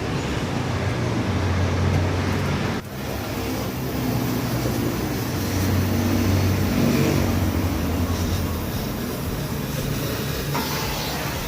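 A car engine running, its low hum swelling twice and easing back.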